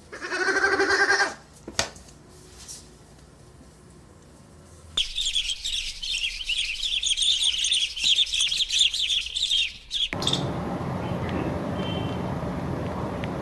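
A flock of birds chirping densely and continuously for about five seconds in the middle. It is preceded by a brief pitched animal call right at the start and followed by a steady rushing noise.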